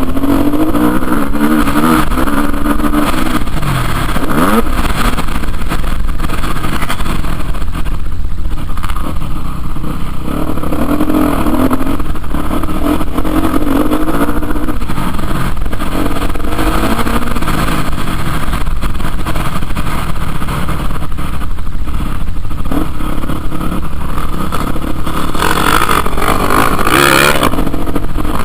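Motocross dirt bike engines revving, the pitch rising and falling as the throttle opens and closes. A louder, higher-pitched surge comes near the end.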